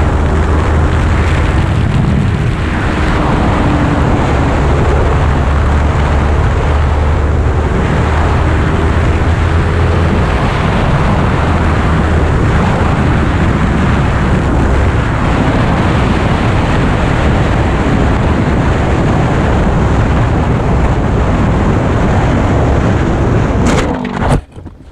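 Motorcycle running at speed with a loud, steady rush of wind noise over the microphone, which cuts off abruptly near the end.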